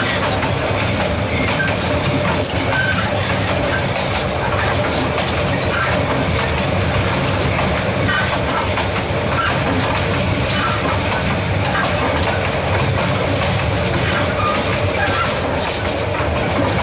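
Passenger train carriages running on rails, heard from the open gap between two coaches: a steady loud rumble of wheels on track with scattered clicks and clatter.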